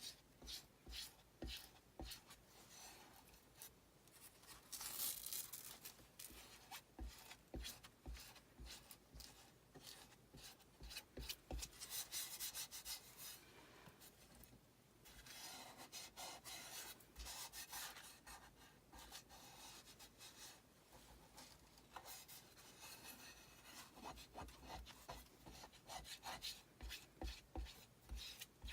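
Faint, irregular rubbing and scraping strokes of a hand tool working chalk paste over a Chalk Couture transfer on a board, in a long run of short strokes.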